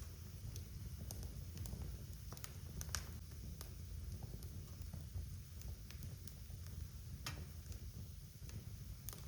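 Wood fire crackling in a fireplace: irregular sharp pops and snaps, roughly one a second, over a low steady rumble of burning.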